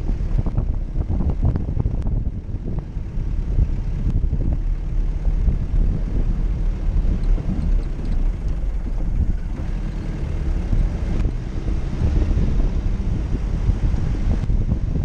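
A vehicle engine running steadily, with wind buffeting the microphone and a few sharp knocks and rattles in the first few seconds.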